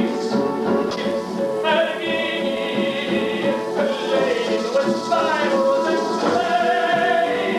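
A theatre musical number: a singer's long held and gliding notes over a live pit-orchestra accompaniment.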